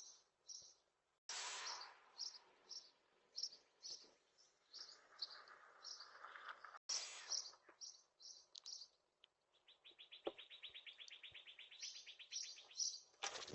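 Small songbirds chirping in short, high repeated notes, two or three a second, with a rapid, even trill of about three seconds in the last third.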